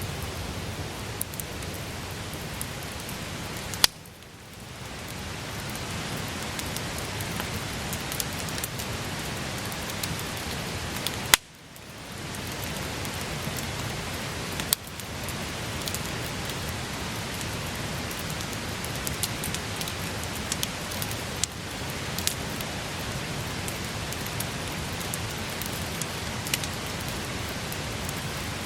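Wood campfire burning with a steady crackle and hiss, many small pops, and two loud sharp pops about four and eleven seconds in.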